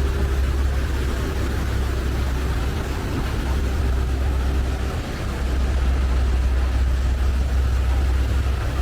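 Heavy diesel truck engines running steadily with a deep, low rumble as tractor units tow a heavily loaded trailer up a steep grade.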